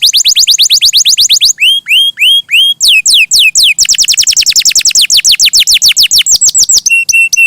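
Domestic canary singing loud, fast trills of repeated downward-sweeping notes, about ten a second. The trills break about two seconds in for four slower rising whistles, then resume, and the song ends in three short steady notes.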